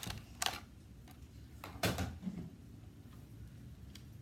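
A few sharp clicks and knocks of hard plastic being handled, with one louder knock and a dull thud just under two seconds in, as a toy Nerf blaster is picked up and moved about.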